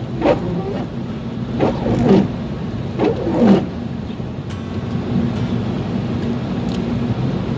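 Car on the move: a steady low rumble of engine and road noise, heard from inside the vehicle. Three short voice-like sounds come in the first half.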